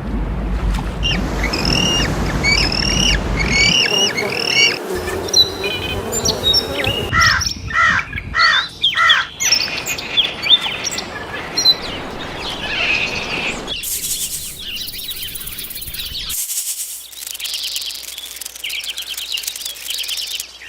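Songbirds chirping and singing in repeated short phrases over a steady outdoor background hiss, in several short recordings that change abruptly, with one cut about four seconds in and another about two-thirds of the way through.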